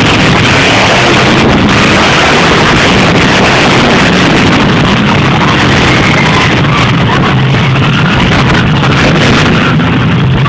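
Monster truck engines running loud and steady, so loud that the recording is overloaded into a dense wall of noise, with arena music mixed in.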